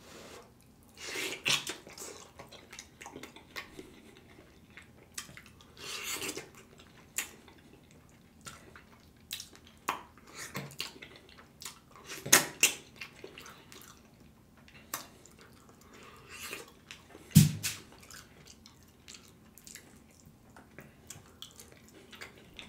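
Close-miked wet chewing and lip-smacking of a person eating sauce-covered oxtails off the bone, a string of short sticky clicks and smacks. One louder knock about three quarters of the way through.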